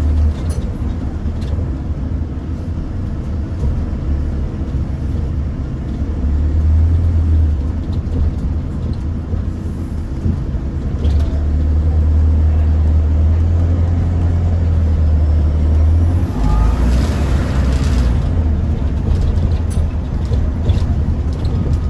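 Bus engine and drivetrain heard from inside the passenger cabin: a steady low drone that swells and eases as the bus pulls away and slows. About sixteen seconds in there is a hiss of air lasting about two seconds, with a faint rising whistle over it.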